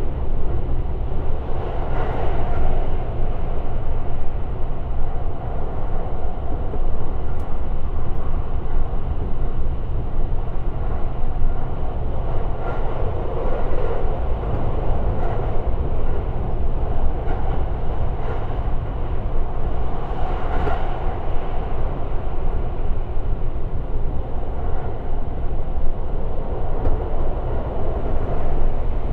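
Limited Express Shirasagi electric train running along the line, heard from inside the carriage: a steady rumble of wheels on rails with occasional faint knocks.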